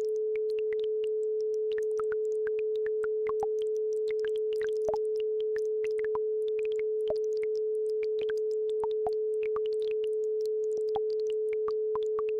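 A steady pure tone at about 432 Hz, with the faint, scattered plinks and trickle of a babbling brook over it.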